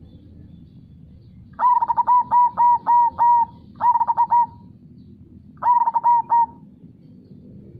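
Zebra dove (perkutut) cooing in three runs of quick, clipped notes: a long run of about six, then two shorter runs of three or four.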